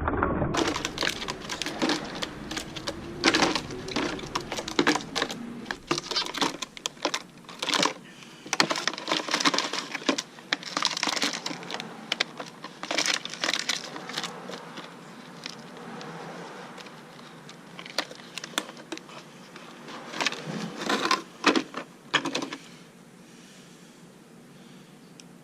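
Irregular light clicks and knocks, some in quick clusters, thinning out after about 22 seconds.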